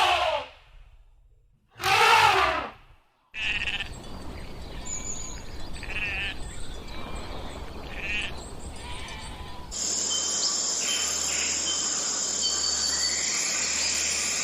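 Sheep bleating: two loud calls in the first three seconds. Then, after abrupt cuts, a steady noisy background with a few fainter short animal calls, and later a steady hum with thin high tones.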